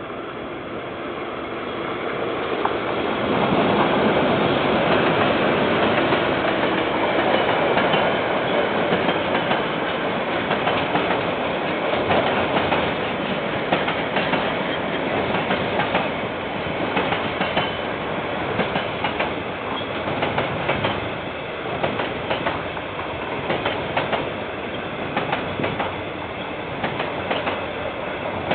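KiwiRail train passing close by, building up over the first few seconds and then running steadily, its wheels clicking over the rail joints in a long run of clickety-clack. Heard through a security camera's microphone.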